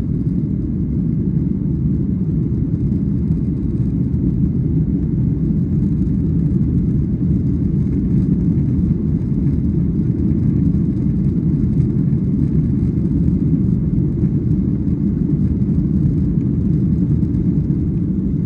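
Jet airliner cabin noise during takeoff: a steady low rumble of the engines and rushing air, unchanging throughout.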